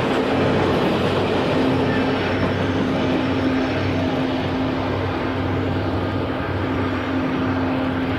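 Train of passenger cars rolling along the track and moving away: a steady rumble with a low, even hum, its high hiss thinning out a few seconds in.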